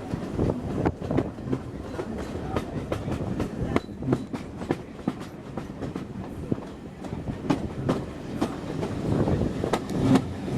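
Railway carriage running along the line: a steady rumble with wheels clicking irregularly over the track and the coach rattling.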